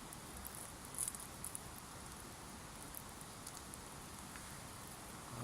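Wood campfire crackling: scattered small pops and ticks over a steady low background noise, the loudest pop about a second in.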